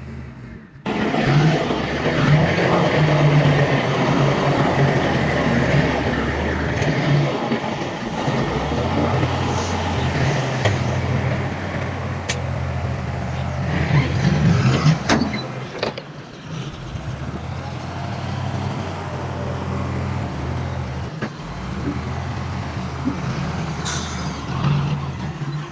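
Heavy diesel earthmoving machinery running under load, with a steady low engine drone and a dense rushing noise that comes in suddenly about a second in. A few sharp metallic knocks sound along the way.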